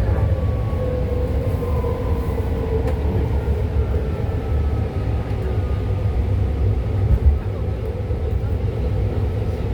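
A BART train running, heard from inside the car: a steady low rumble with a faint whine that drops slightly in pitch in the first couple of seconds.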